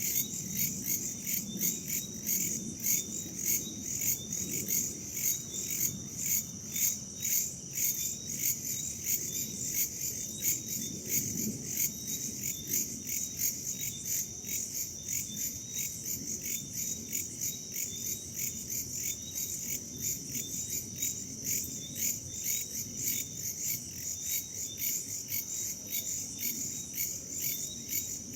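Crickets chirping in a steady chorus of evenly repeating, high-pitched pulses, with a soft low rumble of wind beneath.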